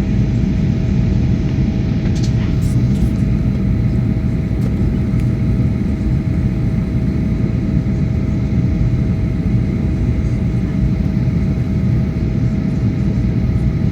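Boeing 737-800 cabin noise on the approach: the steady, even rumble of the engines and airflow past the fuselage, with a faint steady tone held throughout.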